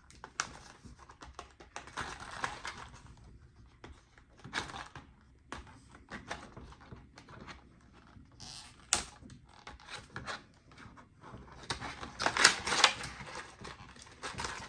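Irregular clicks, taps and crinkles of a hard plastic fishing lure being handled and turned over in its plastic packaging, with a cluster of louder clicks near the end.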